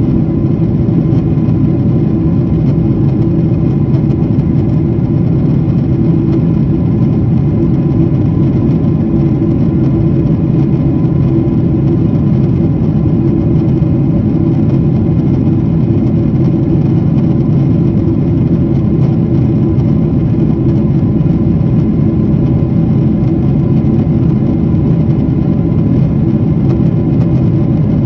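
Airplane engine drone, loud and steady with no change in pitch or level, its energy deep in the low range with faint steady tones above.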